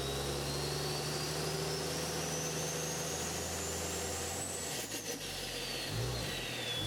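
Cummins diesel engine running with a steady low note and a thin high whine that climbs for about four and a half seconds and then falls away. The low engine note fades out about two-thirds of the way through.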